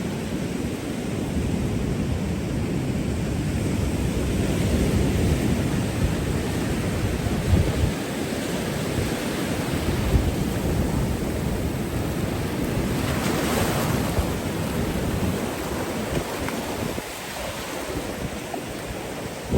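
Ocean surf washing onto the beach, with wind buffeting the microphone in a steady low rumble. A wash grows brighter and louder for a moment about two-thirds of the way through.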